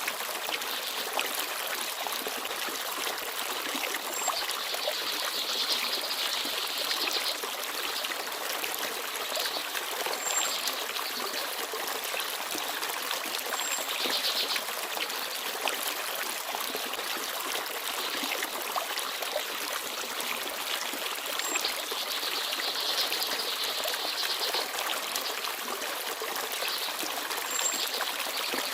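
Forest stream babbling and trickling steadily. Small birds chirp now and then over it with short, thin, high notes, about half a dozen times.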